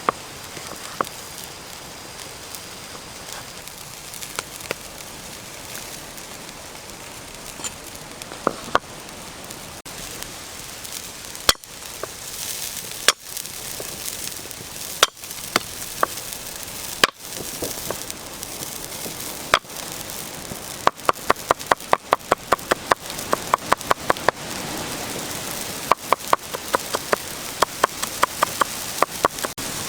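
Knife chopping on a board: scattered strokes at first, then quick runs of about four strokes a second, over a steady hiss.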